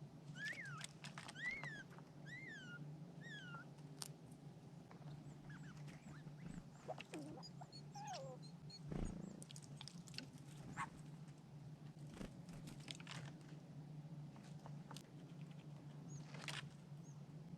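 Birds calling: a run of four short arching calls in the first few seconds, then scattered high chirps and light clicks, over a steady low hum.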